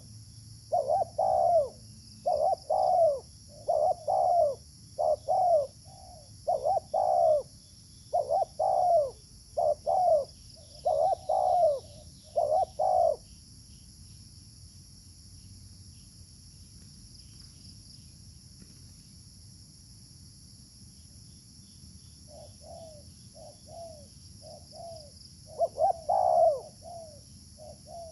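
Spotted dove (terkukur) cooing: a quick run of short repeated coo phrases for about thirteen seconds, a pause of several seconds, then cooing starts again near the end.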